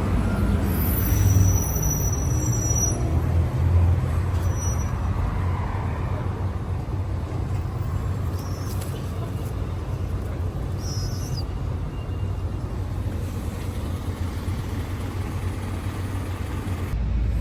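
Steady low rumble of road traffic, buses and cars, somewhat louder in the first few seconds.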